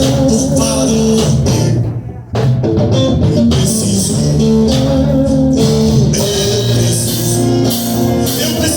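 A band playing a song led by guitar, with a brief break about two seconds in.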